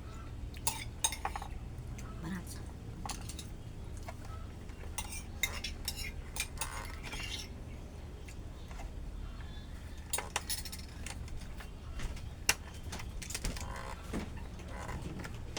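Irregular light clicks and clinks of small hard objects being handled, over a steady low hum.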